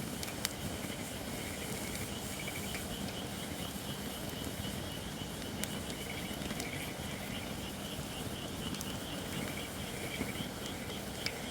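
Campfire of Japanese white oak (shirakashi) logs burning with a steady hiss and a few scattered sharp crackles; the hissing is the sign of firewood not yet dry enough. A high, pulsing chirr sounds throughout.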